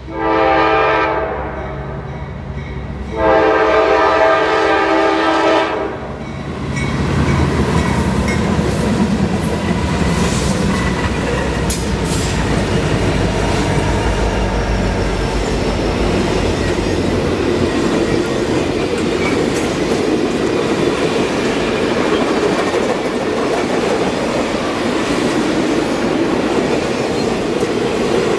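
Locomotive air horn on the circus train: a short blast, then a longer blast about three seconds in. After that comes the steady noise and clatter of the train's cars rolling past on the rails.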